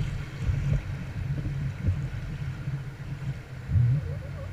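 Wind buffeting the microphone in uneven low gusts, strongest near the end, over a faint wash of river water while kayaking.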